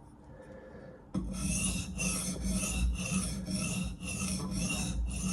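Thick carbon-steel blade being stroked back and forth on a Sharpal sharpening stone, a rasping scrape in a steady run of strokes, about two a second, starting about a second in.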